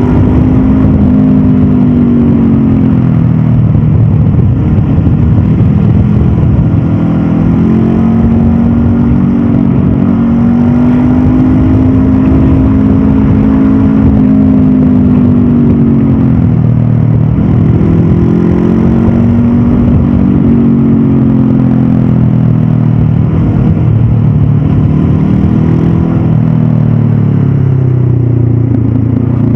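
Stock Honda CB500F's 471 cc parallel-twin engine and exhaust under way, its pitch rising and falling several times as the throttle is opened and rolled off, with one long climb and fall in the middle.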